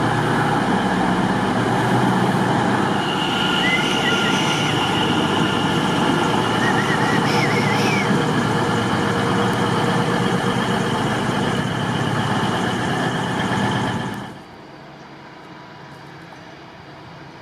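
A train running through the station, a loud steady rumble with a few brief high squeals from the wheels on the track. It cuts off abruptly near the end, leaving quieter station background.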